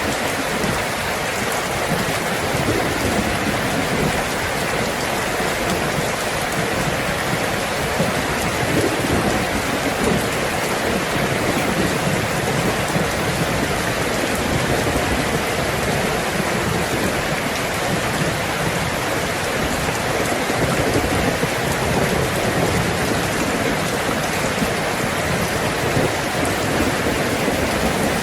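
Heavy rain drumming steadily on a tin roof, with low thunder rumbling underneath.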